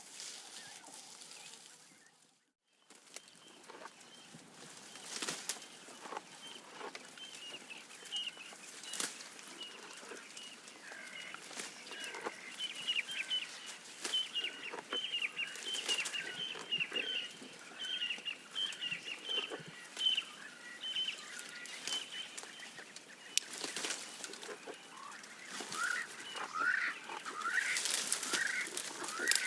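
Birds calling: a long run of rapid repeated chirps through the middle and a series of rising and falling calls near the end. Underneath, irregular crackling and snapping fits a giraffe stripping and chewing leaves and twigs. The sound drops out briefly a couple of seconds in.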